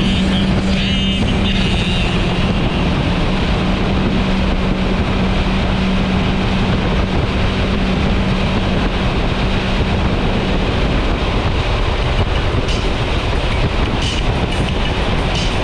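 Motorcycle on the move: steady rush of wind and road noise, with a steady engine drone that fades about ten seconds in.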